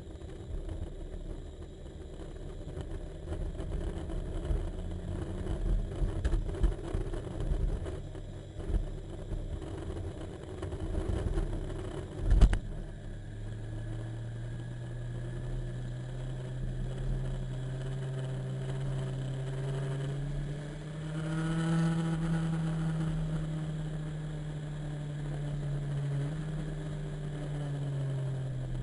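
Motorcycle engine running while riding, with wind rumble on the microphone. There is a sharp knock about twelve seconds in, after which the engine's steady note comes through plainly and rises briefly a little past the middle as it speeds up.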